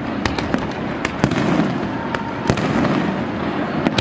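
Fireworks display: a dense, steady crackle with sharp pops and bangs going off at irregular intervals a fraction of a second to a second apart.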